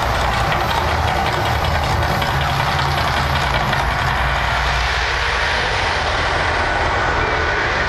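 Man-made volcano attraction erupting: a loud, steady rumble with a rushing noise over it. The highest hiss thins out a little after about five seconds.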